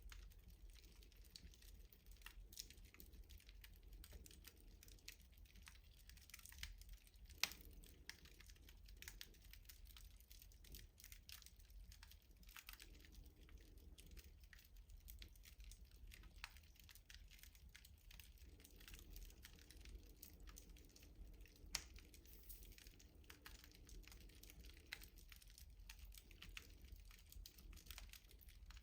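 Wood fire crackling in a rustic stove: irregular small snaps and pops, with two louder pops about seven seconds in and near twenty-two seconds, over a low rumble.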